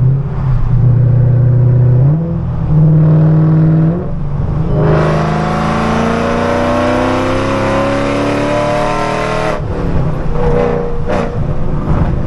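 2008 Shelby GT500's supercharged 5.4-litre V8 running at steady revs, which step up briefly about two seconds in. From about five seconds in it accelerates hard, its pitch climbing steadily for about four and a half seconds before the revs fall away suddenly as the throttle is lifted.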